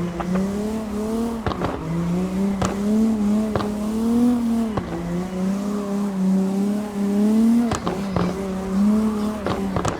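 Engine running after a cold start, with a steady whine that wavers slightly in pitch and sharp ticks about once a second.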